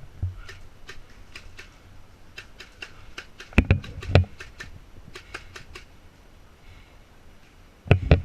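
Airsoft gunfire: scattered sharp cracks, some in quick runs of several shots, with a few louder, heavier knocks in the middle and near the end.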